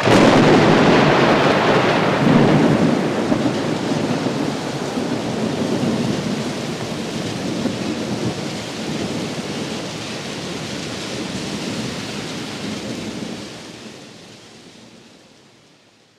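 Thunderstorm and heavy rain sound effect from the song's outro: a steady rushing rain with rumbling thunder, fading out over the last few seconds.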